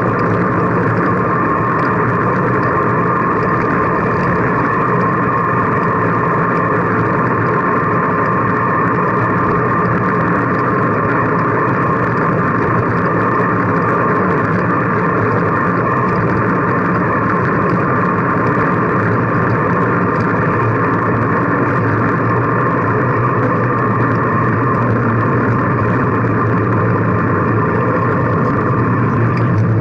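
Steady rushing noise of wind and rolling, muffled, on a camera carried by a moving bicycle, unchanging throughout.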